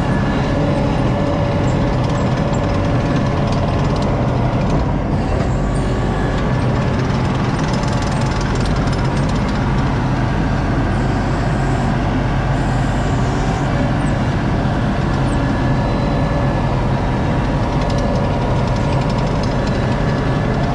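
Diesel engine of an ASV RT-40 compact track loader running loud and steady, with a constant engine drone over machine clatter and no change in pitch.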